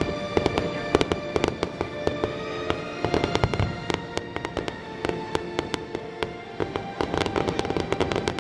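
Aerial fireworks bursting in quick succession, sharp bangs and crackles that grow denser about seven seconds in, with music playing underneath.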